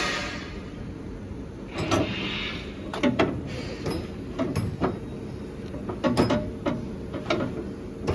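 Irregular metal clanks and knocks, about a dozen sharp hits spread unevenly, as a new leaf spring is fitted to a truck. Short hisses come at the start and again about two seconds in.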